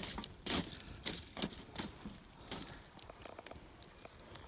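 Wood fire burning down over charcoal, crackling with irregular pops and snaps that thin out toward the end.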